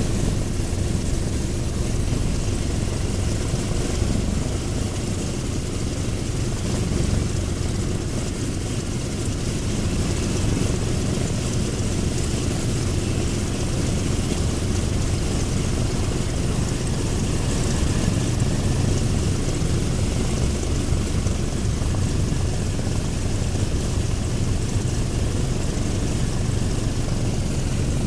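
Douglas A-26B Invader's right-hand Pratt & Whitney R-2800 radial engine running steadily on a ground run, propeller turning, with all cylinders firing.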